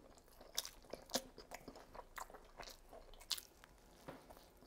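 A person biting into and chewing a lamb kebab wrap rolled in flatbread: quiet, irregular crunches and mouth clicks of chewing.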